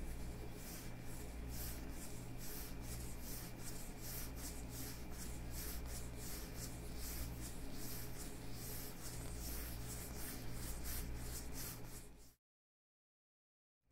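Leather gloves on the hands rubbing and creaking in a run of quick repeated strokes, close to the microphone. It cuts off to dead silence about twelve seconds in.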